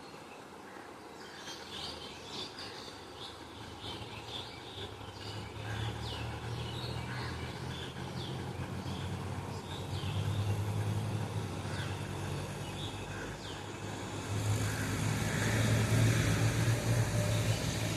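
Small birds chirping with short, high calls. Under them a low droning hum swells twice and is loudest, with a rushing noise, in the last few seconds.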